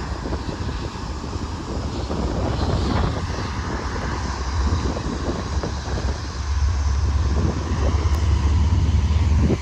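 Continuous rumble of a Union Pacific freight train rolling past, partly buried under wind buffeting the microphone. The sound grows louder about two-thirds of the way through.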